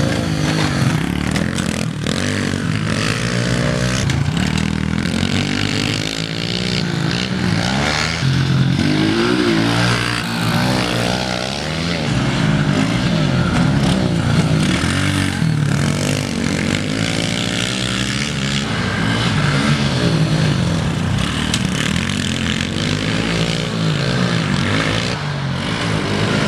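Small single-cylinder four-stroke pit bikes racing around a dirt track. Their engines rev up and down as the riders accelerate and back off, and more than one bike is heard at once.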